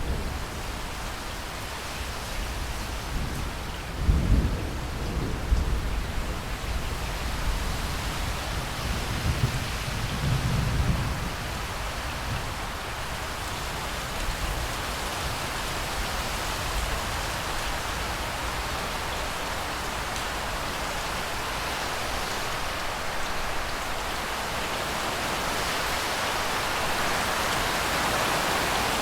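Steady rain with two deep rumbles of thunder, the loudest about four seconds in and a second about ten seconds in. The rain grows louder near the end.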